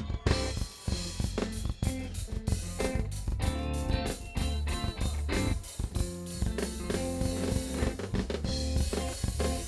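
Live band playing instrumental music with no vocals: a drum kit with kick and snare hits over a steady bass line.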